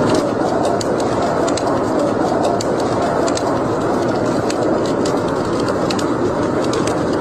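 Fire burning in a fireplace: a steady rushing noise with frequent sharp crackles and pops scattered through it.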